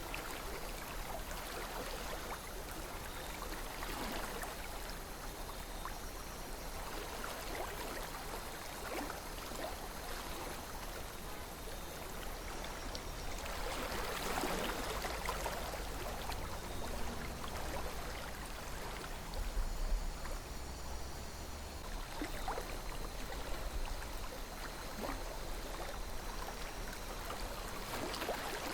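River water flowing steadily over rocks, a continuous rushing babble with small gurgles and splashes, swelling slightly about halfway through.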